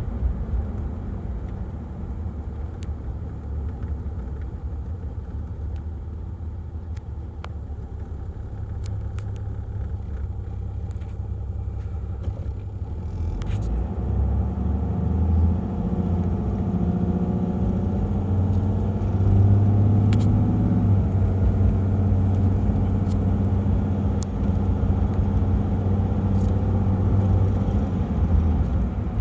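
1995 Land Cruiser's turbo-diesel engine while driving: a steady low drone that, about halfway through, grows louder and rises in pitch as the engine pulls harder, then holds steady.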